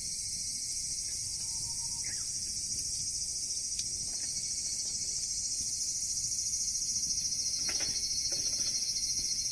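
A steady, high-pitched chorus of insects shrilling, growing a little louder in the second half.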